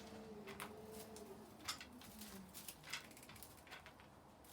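Quiet pigeon loft: a few soft scattered taps and scuffs from the pigeons moving about. A faint low drawn-out tone fades out about two seconds in.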